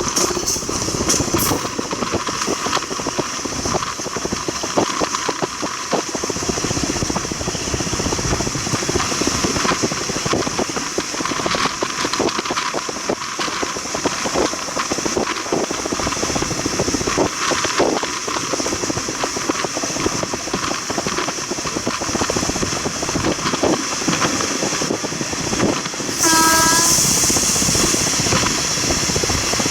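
A train running along the track, with a steady rumble and frequent wheel clicks over the rails. About 26 seconds in, a brief pitched tone sounds and a louder hissing noise sets in.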